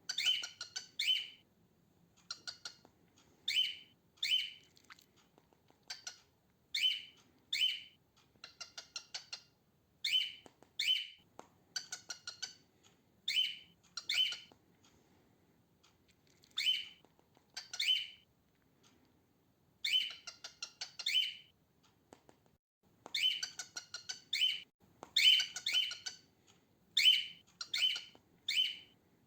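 Female cockatiel calling: short harsh chirps, mostly in pairs, repeated every second or two, with a few rapid buzzy chattering runs among them.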